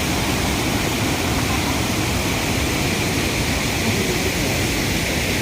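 Waterfall: a steady, even rush of falling water, with faint voices now and then.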